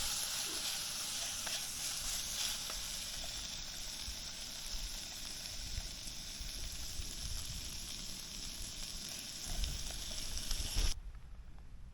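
Slices of meat sizzling in a hot pan: a steady hiss that cuts off suddenly near the end.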